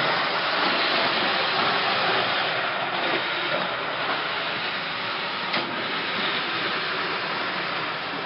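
O-gauge model trains running on a large layout: a steady whir and rattle of small motors and metal wheels on track, with a single sharp click past the middle.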